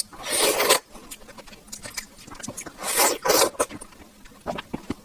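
Two brief scraping, rustling sounds, one just after the start and one about three seconds in, with faint small clicks between them.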